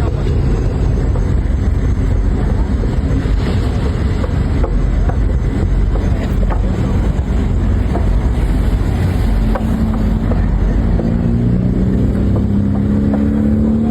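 Steady low rumble of a vehicle on the move, with scattered light clicks. An engine note rises slowly in pitch over the last few seconds.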